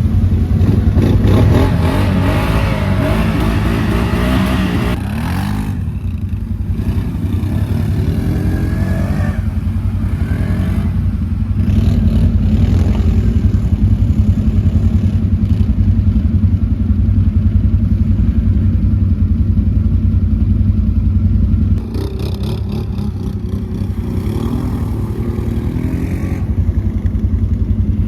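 Quad bike (ATV) engine running under way, steady throughout, its pitch rising and falling with the throttle in the first few seconds and again a little later, with a brief drop in loudness about three-quarters of the way through.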